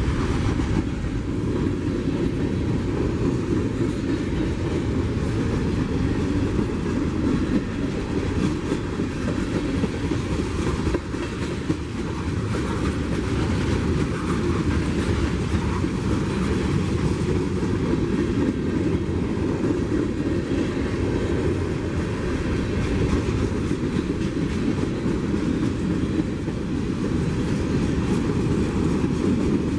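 CSX freight train's cars rolling past steadily, with a continuous low rumble of wheels on the rails.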